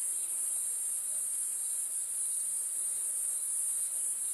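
Steady insect chorus in the bush: a constant, shrill, high-pitched buzz that does not let up.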